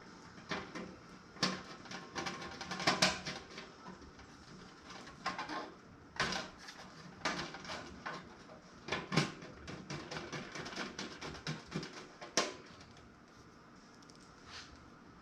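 Irregular clicks and light metallic knocks from a PC power supply being handled and bolted into a toaster oven's case. The loudest knocks come about three, nine and twelve seconds in, and they thin out near the end.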